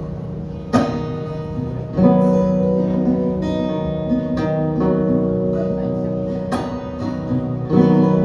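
Guitar playing a song's introduction: chords struck and left to ring, with fresh strums about a second in, at two seconds, and twice near the end.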